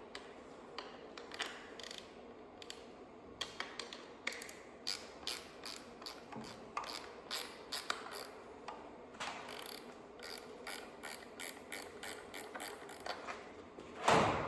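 Ratchet wrench clicking in short, irregular runs while loosening valve cover bolts, with a louder knock near the end.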